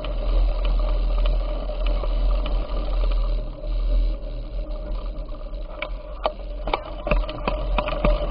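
Bicycle ride noise: a steady low wind rumble on the microphone with running road noise, and a run of sharp clicks and rattles in the last couple of seconds.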